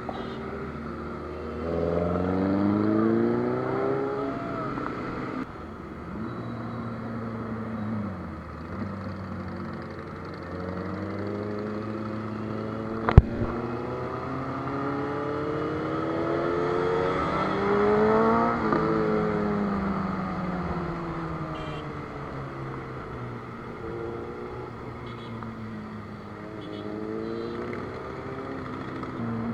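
Superbike engines running on the road, the pitch rising under acceleration and falling again several times. One sharp loud click about halfway through.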